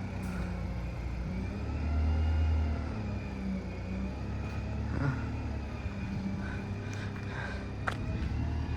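Diesel bus engine running close by, its low hum swelling for about a second around two seconds in, then settling.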